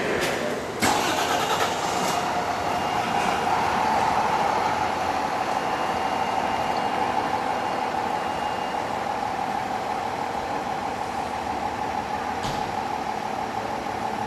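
Fire engine's motor running steadily at idle with a steady whine, after a sharp click about a second in.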